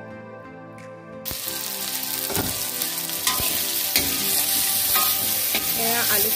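Background music, then about a second in a sudden loud sizzle as cubed potatoes fry in hot oil in a metal kadai. A metal spatula scrapes and knocks against the pan now and then as the potatoes are stirred to brown.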